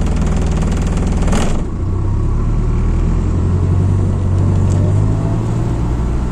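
MAZ-206 city bus's diesel engine running, heard from inside the bus, with a steady low hum. A short loud hiss about a second and a half in.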